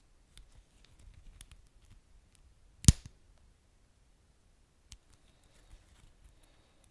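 Wood fire crackling: scattered faint crackles and ticks, with one sharp loud pop about three seconds in and a smaller pop about five seconds in.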